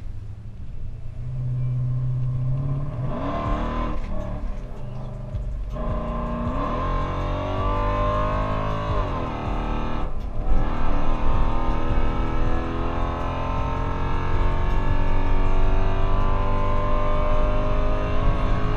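Modified 5.7 L Hemi V8 of a Dodge Charger R/T, with a stage 2 cam and long-tube headers, accelerating hard under full throttle. The engine note climbs in pitch, drops briefly at upshifts about six and ten seconds in, then climbs again.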